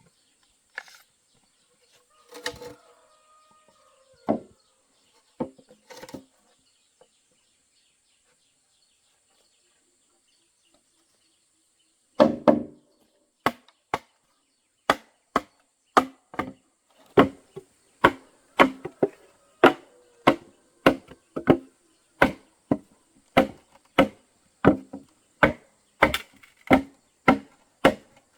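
Chopping into wood with a blade: a few scattered knocks, a pause of several seconds, then a steady run of sharp strokes at about two a second.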